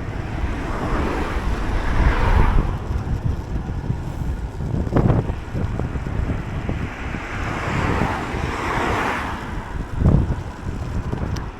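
Wind buffeting the microphone of a moving bicycle, with two passing cars that swell up and fade away, one in the first few seconds and another about eight seconds in. A couple of short thuds come from the bike over the road surface.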